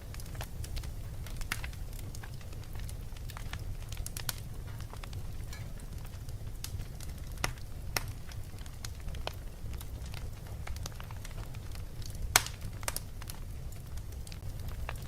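Fireplace fire crackling: irregular sharp pops and snaps over a steady low rumble, with the loudest pop about twelve seconds in.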